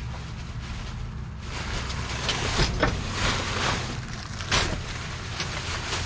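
Rustling and a few sharp knocks of items being moved about while rummaging through a dumpster, over a steady low hum.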